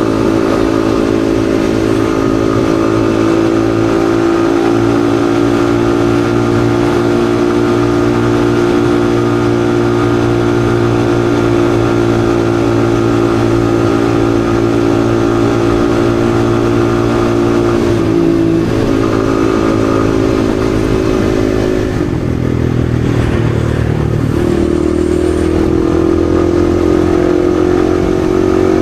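Yamaha XSR155's single-cylinder engine running under way at a steady pitch that sags slowly. It breaks off briefly about two-thirds of the way through, then rises steadily as the bike accelerates near the end.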